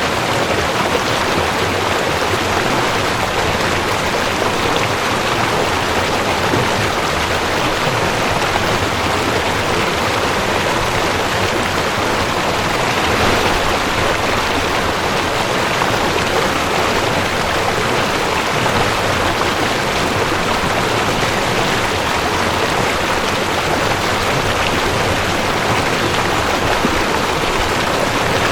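Mountain stream rushing over rocks, a steady, unbroken water noise.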